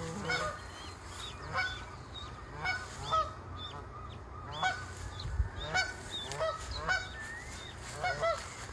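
Geese honking over and over, a short call every half second or so.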